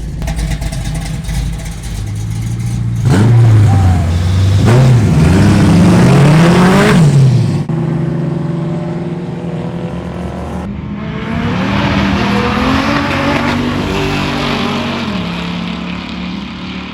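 Car engines at full throttle in a roll race, pitch climbing and dropping back at each gear change; loudest from about three to seven seconds in, then cutting abruptly to another engine pulling hard with a slower climb.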